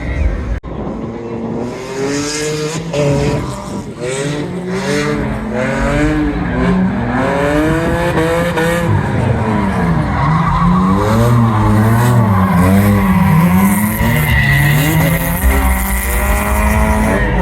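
Car engine revved hard on and off the throttle, its pitch climbing and dropping many times over, with tires squealing as they break traction, growing louder through the second half.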